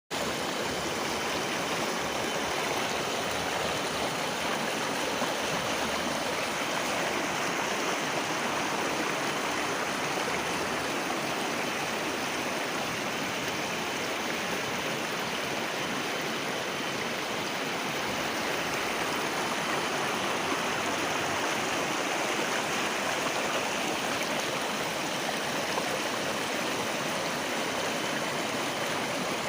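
River water rushing steadily over rocks, an even, unbroken rush of flowing water.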